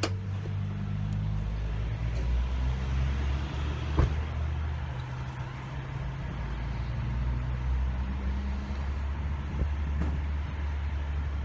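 Car engine running, a low hum that shifts in pitch now and then, with a single sharp knock about four seconds in.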